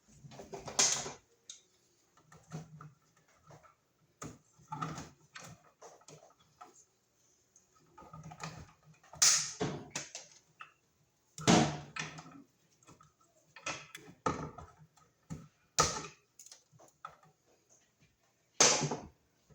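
Irregular clicks, scrapes and knocks of hand tools working on electrical cable, with a few sharper strokes standing out among quieter handling noise.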